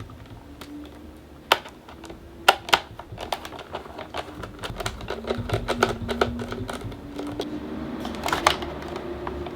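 Plastic parts of a Dyson AM06 bladeless fan and a T8 star screwdriver clicking and knocking during disassembly. There are a few sharp louder clicks, with a run of quick small clicks in the middle.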